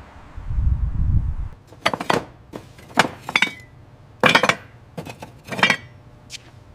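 A short low rumble, then a series of sharp clinks and clanks, about five strikes roughly a second apart, each with a brief ring, followed by a few lighter ticks.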